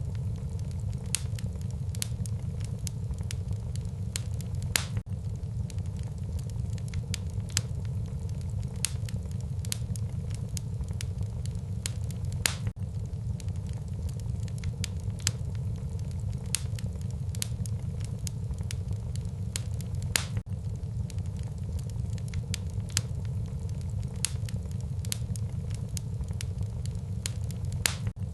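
Wood fire in a fireplace, crackling with many small pops over a steady low rumble of the flames. A few louder pops stand out, spaced several seconds apart.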